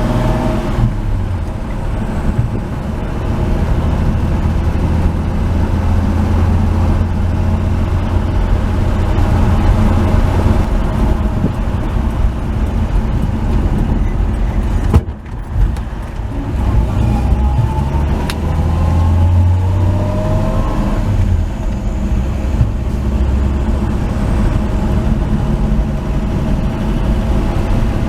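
1949 Chevy 3100 pickup's straight-six engine running under way on the road. About halfway through it briefly drops away, then climbs in pitch as the truck accelerates again.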